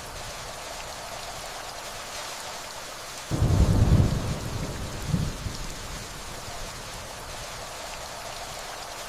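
Steady rainfall with a low rumble of distant thunder that comes in suddenly about three seconds in, swells again a second or so later and dies away.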